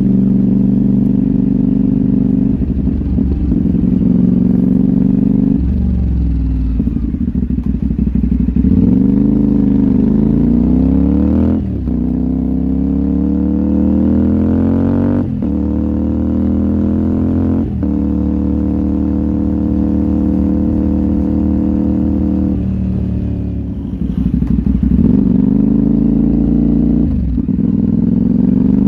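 CFMoto 450NK's parallel-twin engine running under way, its pitch climbing as it accelerates and dropping sharply at each of several quick upshifts, with stretches of steady cruising and a few moments of easing off the throttle.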